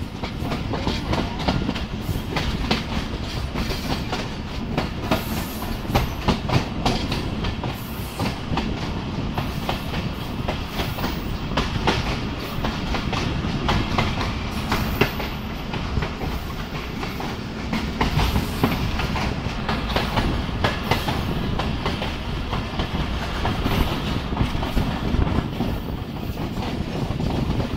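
Pakistan Railways passenger coach running at speed, heard at its open window: a steady low rumble with wheels clattering over the rail joints.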